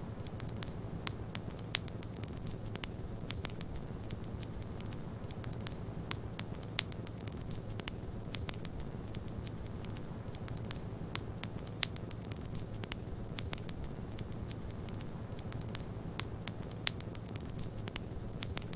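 Wood fire crackling, with irregular sharp clicks and a few louder pops over a steady low rumble.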